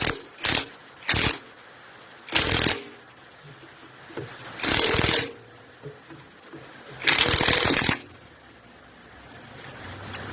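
Hand tools working on engine parts during a teardown, making about six short bursts of scraping and rasping noise with pauses in between; the longest lasts nearly a second, near the end.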